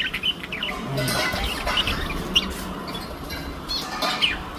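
Parrots calling: a scatter of short, sharp chirps and squawks, with a louder flurry near the end.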